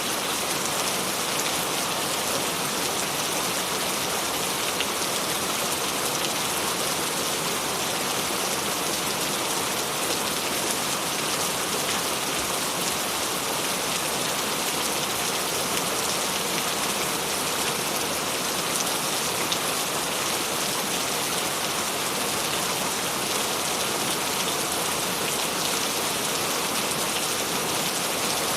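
Steady rainfall, many drops pattering on a surface.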